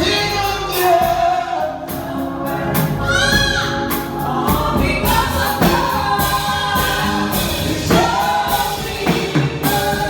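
Live gospel worship music: a choir and singers with a backing band and drums.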